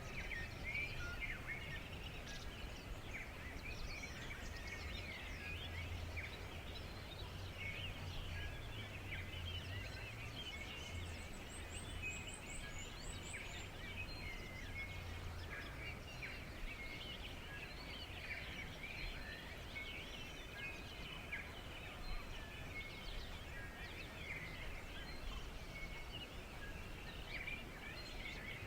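Many small songbirds chirping and twittering in a forest, with a brief high trill about twelve seconds in, over a low background rumble that eases after about fifteen seconds.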